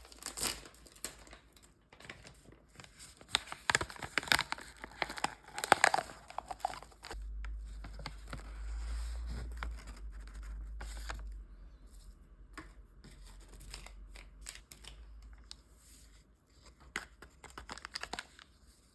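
Crinkling and tearing of packaging, with scattered clicks and taps that are busiest in the first six seconds. A low hum runs from about seven to eleven seconds in.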